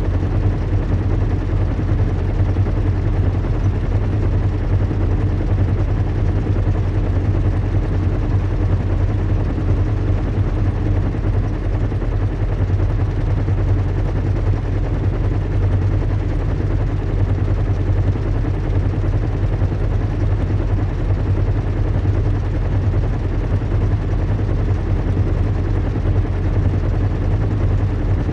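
Recreated ambience of a large airship in flight: a steady low rumble and hum of engines and propellers with a fast, even flutter, strongest in the deep bass.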